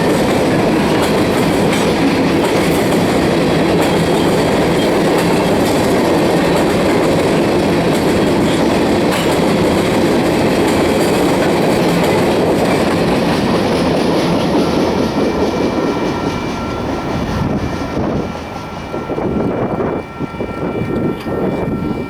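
Freight cars of a Union Pacific train rolling past with the clickety-clack of wheels over rail joints, loud and steady, then dropping off over the last few seconds.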